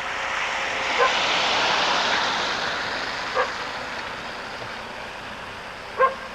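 A dog barks three times, single short barks a couple of seconds apart, over a loud steady rush of aircraft engine noise that slowly fades away.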